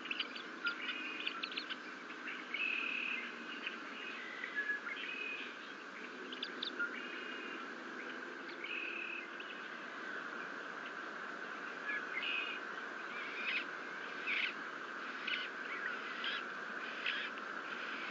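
Wild birds chirping and calling, with many short high notes and brief held whistles coming at irregular times over steady background noise.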